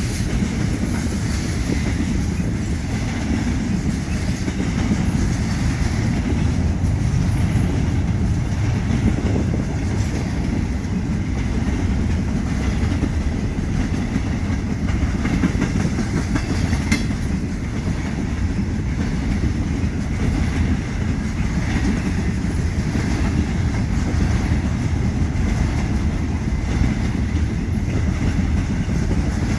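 Union Pacific freight train's cars rolling past at close range: a steady low rumble with the clickety-clack of wheels over rail joints.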